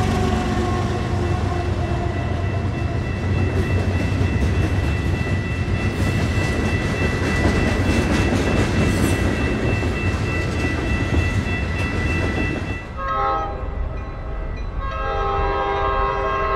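Freight train cars rolling past on the rails, wheels rumbling and clacking, with a thin steady high squeal. The locomotives' engine sound fades away in the first couple of seconds. About 13 seconds in the scene changes to an approaching train sounding its horn: a short blast, then a longer one that runs on.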